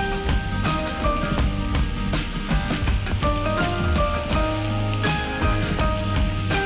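Oil sizzling and spattering as vegetables fry in a small steel wok, with frequent little pops, under background music with a melody and bass line.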